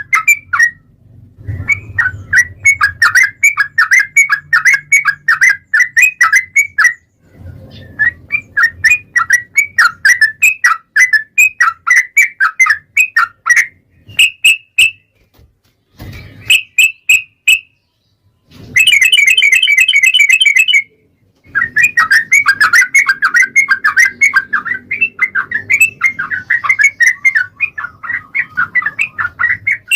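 Yellow-vented bulbul (trucukan) singing in long, quick runs of repeated chattering notes, broken by short pauses. About nineteen seconds in there is a denser, faster trill.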